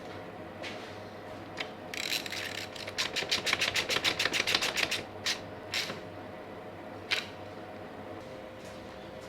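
A hand ratchet wrench clicking rapidly, about ten clicks a second for around three seconds, as a bolt is run in, followed by a few single clicks.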